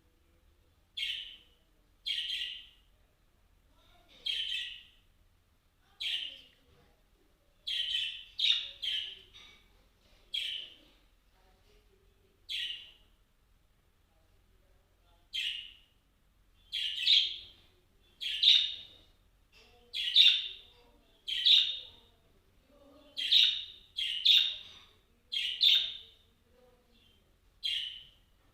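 A bird giving short, separate chirps, about one every second or two at irregular intervals, sometimes two or three in quick succession.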